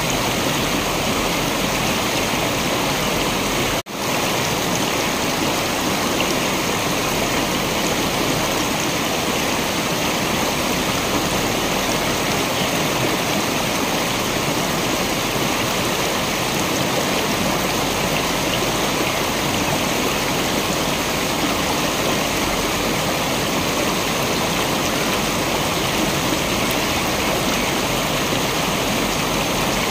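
Waterfall water rushing in a steady, even wash, with a momentary cut-out about four seconds in.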